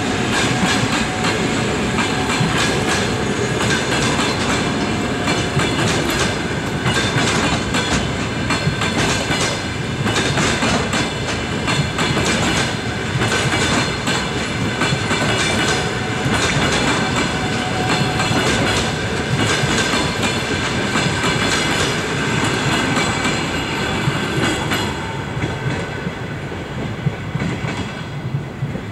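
Passenger coaches of a departing express train rolling past, their wheels clattering steadily over the rail joints. The sound fades over the last few seconds as the end of the train goes by.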